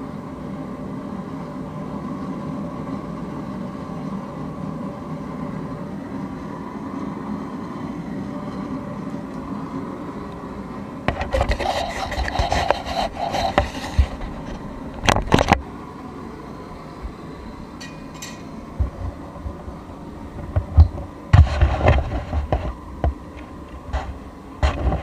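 Workshop sounds during knife forging: a steady machine hum, then from about eleven seconds in, bouts of rough scraping and rubbing broken by several sharp knocks.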